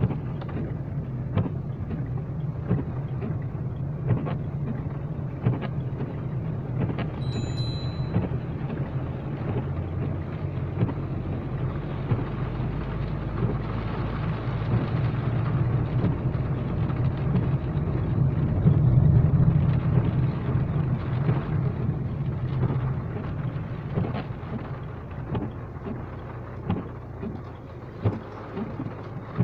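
Steady rain falling, with many small drop clicks over a continuous low rumble that swells louder about two-thirds of the way through. A brief thin high tone sounds about a quarter of the way in.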